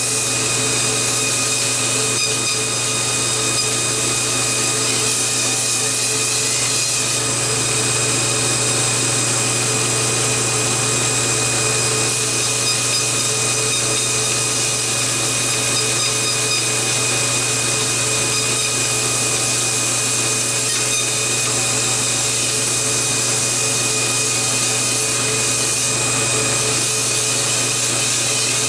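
Belt grinder running steadily with a 1x72 scalloped 320-grit belt, sanding the curved surfaces of a knife handle.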